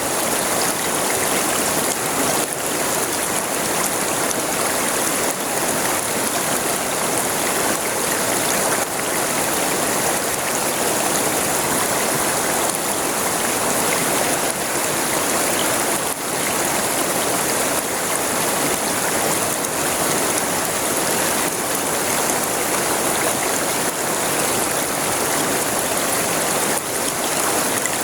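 River water rushing and splashing steadily over its bed, a continuous even flow without breaks.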